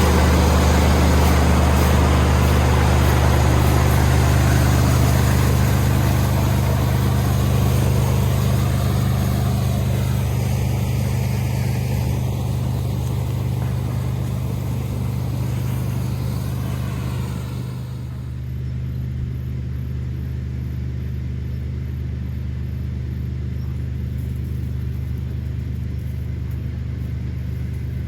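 Combine harvester's diesel engine running steadily with a deep hum, under a harsher mechanical rush that drops away abruptly about two-thirds of the way through, leaving the engine's hum.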